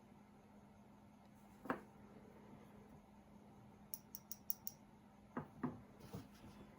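Faint clicks and light knocks of jewelry being handled: one click early, a quick run of five small high clicks about four seconds in, then a few soft knocks.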